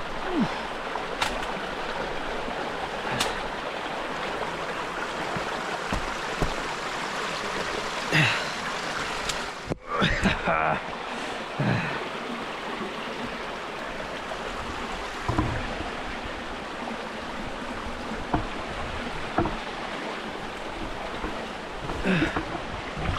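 Steady rush of a bush stream running close by, with a few brief louder sounds from a person pushing through dense scrub beside it.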